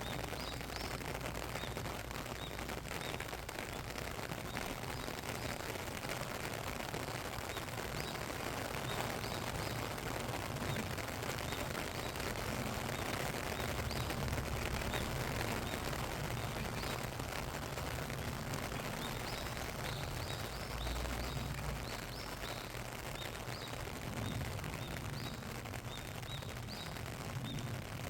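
Steady rain falling: a dense, even hiss of drops with many close drops tapping. Small birds chirp faintly now and then, more often near the end.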